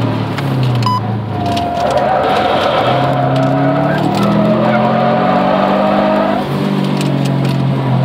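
Car engine heard from inside the cabin during hard track driving, revs climbing and dropping several times as the car accelerates and lifts for corners.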